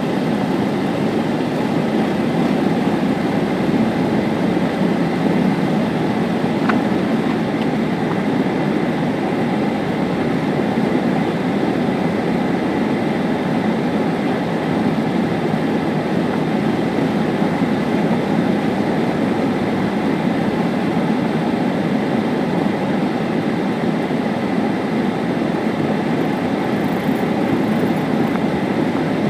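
Steady rumble of a car in motion, heard from inside the cabin: tyre and engine noise on the road, even and unbroken.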